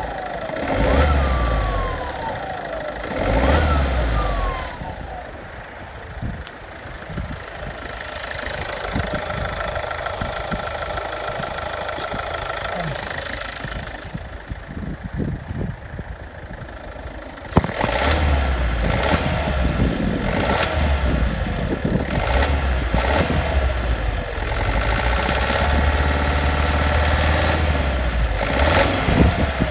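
Hyundai i30 1.6 CRDi diesel with a variable-geometry turbo, revved in blips, with a howling turbo whine that slides down in pitch as the revs fall in the first few seconds. About halfway through there is a click, and the engine runs louder with changing tones after it. The howl was not cured by fitting a used replacement turbo, and it stops when the vacuum line to the VGT actuator is disconnected.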